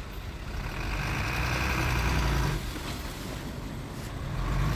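Heavy earthmoving machine's diesel engine working under load. It revs up for about two seconds, eases off about two and a half seconds in, then revs up again near the end.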